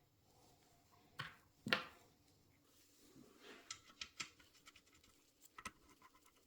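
Faint clicks and knocks of hand tools and metal parts being handled, with two louder knocks between one and two seconds in and lighter ticks later.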